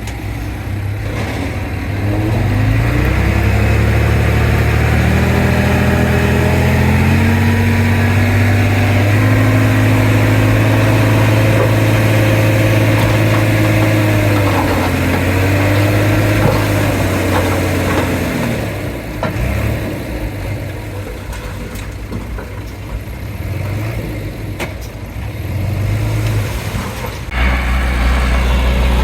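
Heavy diesel engine of earthmoving machinery revving up about two seconds in and running hard and steady under load, with a brief dip in pitch partway through. Later it drops back to a lower, rougher running, then revs up again near the end.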